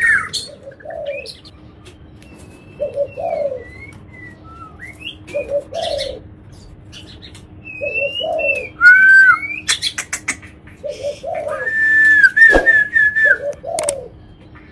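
White-rumped shama (murai batu) singing a varied song of whistled gliding notes and sharp clicks, with one long level whistle near the end. Under it, a low cooing phrase repeats about every two and a half seconds.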